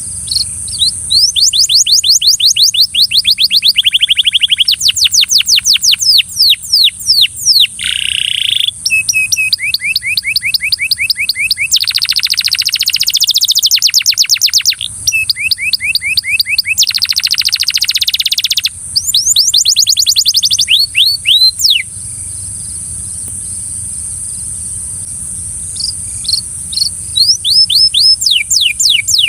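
Canary singing in fast rolling trills, each a quick run of repeated sweeping notes that changes speed and pitch from one trill to the next. The song breaks off for several seconds past the middle and starts again near the end.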